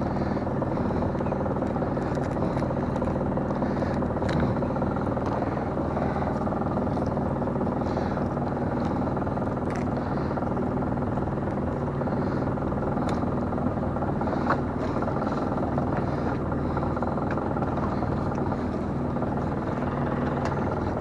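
Small fishing boat's engine running steadily: an even hum with several held tones, with a few faint clicks and knocks.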